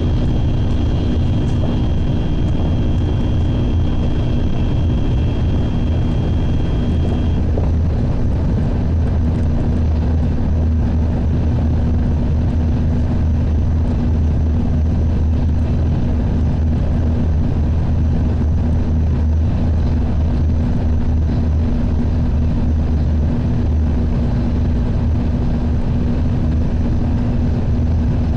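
Shinkansen train running at speed, heard from inside the passenger cabin: a steady, loud rumble and hum. A fainter high whine drops out about seven seconds in.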